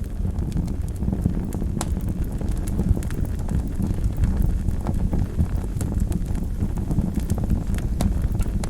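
Wood fire burning in a fireplace: a steady low rumble of flames with frequent sharp crackles and pops throughout.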